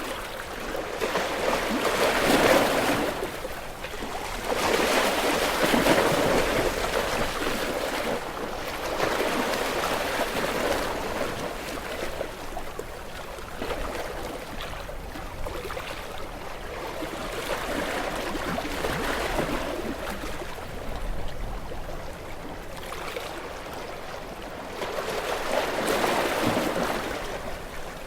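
Gentle sea waves washing onto a shore, each wash swelling and fading every few seconds, with the louder ones about two seconds in, around six seconds, and near the end.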